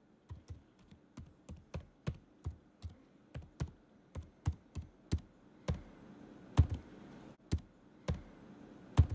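A series of irregular tapping clicks, about two a second, each with a dull thump, the loudest near the end.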